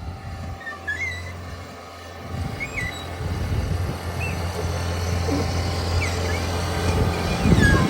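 Bobcat S66 skid steer's diesel engine running steadily while the Harley rake works the soil; the machine noise builds from about two seconds in and is loudest near the end.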